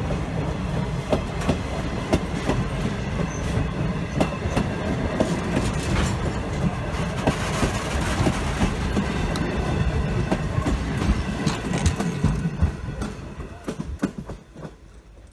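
Train cars rolling past, their wheels clacking over the rail joints over a steady rumble, fading away over the last couple of seconds.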